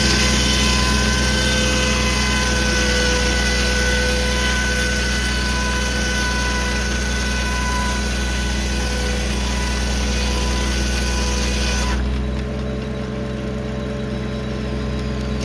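1950 Corley circular sawmill blade cutting through a log, a high ringing whine whose pitch falls a little as the cut goes on, over the steady running of the 1952 Farmall H's four-cylinder engine driving the mill. The cut ends abruptly about twelve seconds in, leaving the tractor engine and free-spinning mill running.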